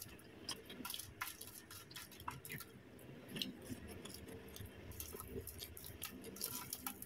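Faint chewing of McDonald's french fries, with scattered soft clicks from the mouth and from fingers picking fries off aluminium foil.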